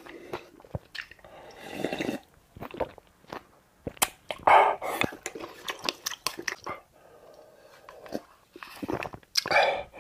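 A man chewing food close to the microphone, with short mouth clicks and smacks and a few louder wet bursts of eating noise.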